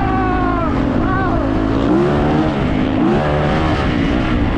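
Yamaha YZ450 dirt bike engines running hard and revving, their pitch rising and falling repeatedly over a steady low rumble.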